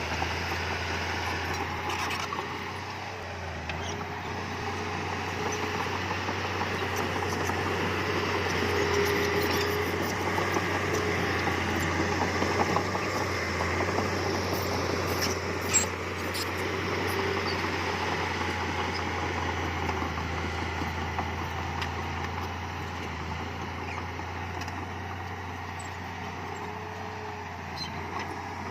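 Diesel engine of heavy earthmoving machinery running steadily, with a deep hum, scattered light clanks and one sharp knock about sixteen seconds in.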